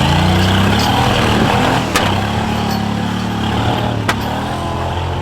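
Off-road vehicle engine running loud under load, its pitch rising and falling as it is worked on throttle. Two sharp knocks cut through, about two and four seconds in.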